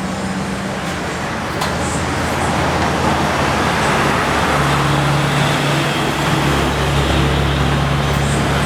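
Vehicle engine running at a steady speed through an aftermarket exhaust: a low, even drone that grows a little louder about a second and a half in and deepens slightly in steps later on.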